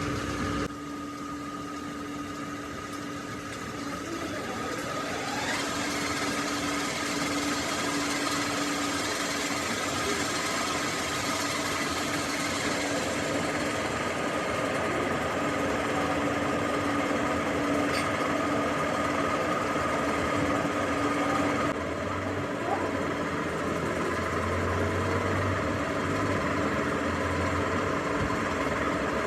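Machine tool running steadily in a metalworking shop, a constant mechanical hum over a noisy whirr. The sound changes abruptly about a second in and again around 22 seconds.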